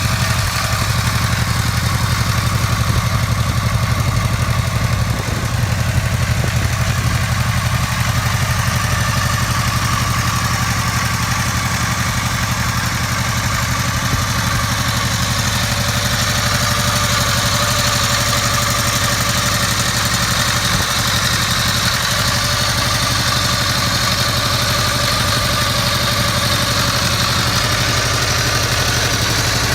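V4 motorcycle engine idling steadily, with no revving.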